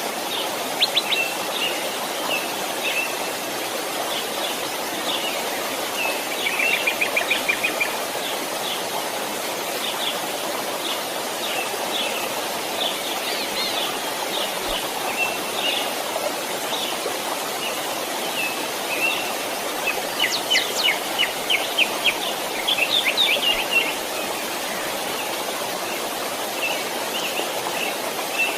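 A small stream flowing steadily, with birds chirping over it throughout; two spells of rapid trilling, about a quarter of the way in and again about three quarters through, are the loudest parts.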